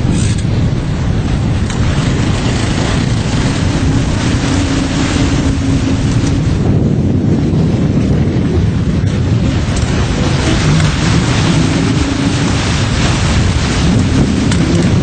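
Floodwater rushing, with wind buffeting the microphone: a loud, steady noise, heaviest in the low end.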